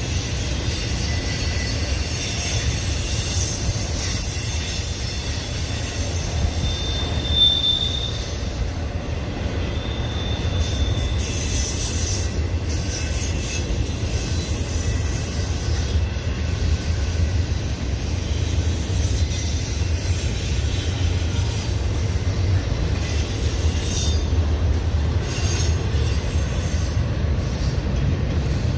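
Intermodal freight train's cars rolling past with a steady low rumble, and brief high-pitched wheel squeals about seven and ten seconds in.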